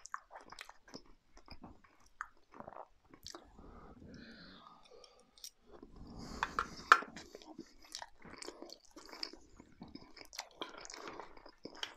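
A man chewing a mouthful of curry, with soft mouth sounds and small clinks of a metal spoon in a stainless steel dish; the loudest is a sharp click about seven seconds in.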